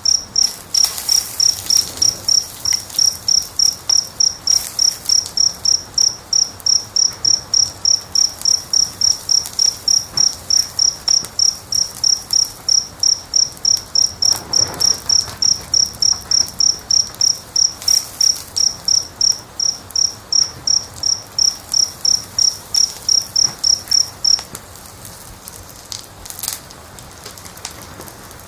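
A cricket chirping in a steady rhythm at one high pitch, about two and a half chirps a second, over the soft crackle of a wood fire. The chirping stops abruptly about 24 seconds in, leaving only the crackling.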